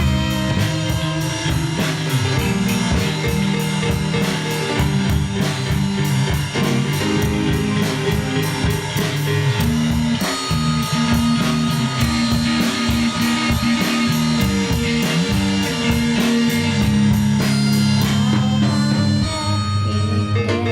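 A band playing: keyboard with bass guitar and a drum kit, the cymbals keeping a steady quick beat that drops out about a second before the end.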